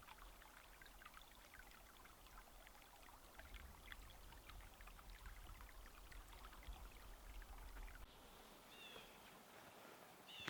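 Faint creek water trickling and babbling, a steady wash dotted with small irregular splashes, with a brief high chirp about nine seconds in.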